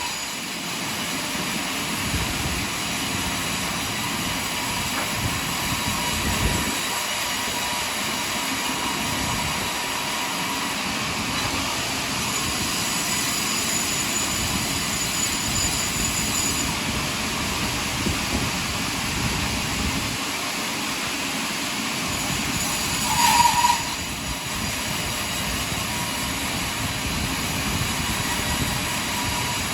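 Sawmill running steadily as its saw cuts through a large log, with a brief louder burst with a tone to it about three-quarters of the way through.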